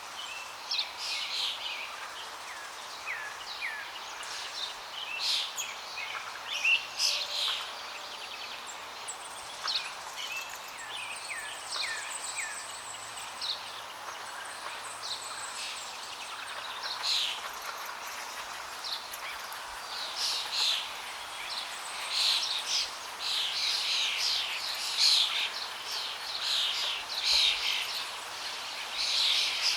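Many small birds chirping and calling over a steady hiss of flowing water; the chirping grows denser and busier from about two-thirds of the way through.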